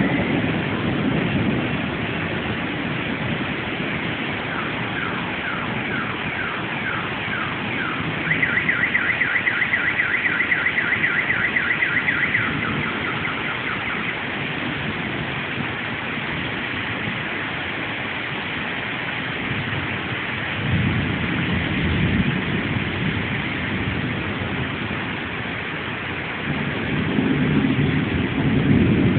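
Steady rain falling. From about five seconds in there is a rapidly repeated chirping that speeds up and grows louder, then stops around fourteen seconds. Low rumbles swell up about twenty-one seconds in and again near the end.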